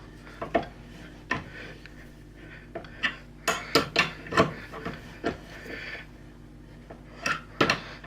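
Irregular sharp metal clinks and knocks from hand tools and a metal workpiece being handled, clustered a few seconds in and again near the end.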